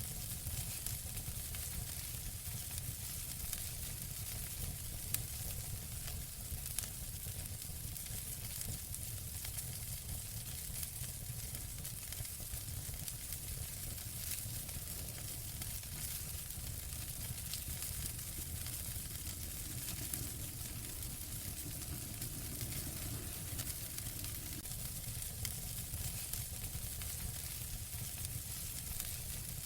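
Wood fire in a fireplace burning steadily, a constant hiss with many small crackles and pops and a low rumble underneath.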